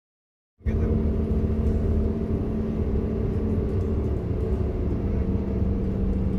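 A steady low mechanical rumble with a held hum, starting abruptly about half a second in.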